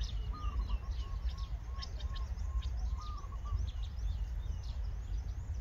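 Several birds chirping and calling, with many quick high chirps and a run of short, evenly spaced lower notes in the first half, over a steady low rumble.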